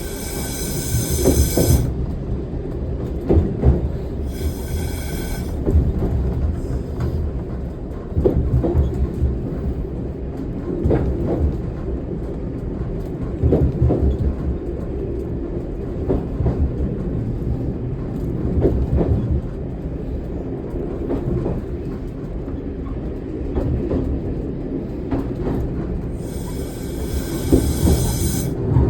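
Single-car diesel railcar running on jointed track, heard from its cab, with a steady rumble and repeated knocks from the rail joints. The wheels squeal with a high, ringing tone on curves three times: at the start, about five seconds in, and near the end.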